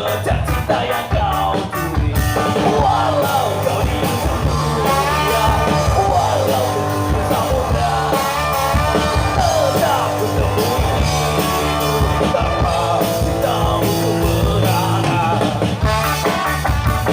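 Ska band playing live, with bass and drums under a wavering melody line, singing included.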